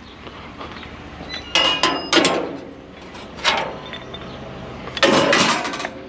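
Metal scrap clanking and clinking as it is handled, in three bursts of knocks with a short metallic ring: about a second and a half in, around three and a half seconds, and a longer clatter near the end.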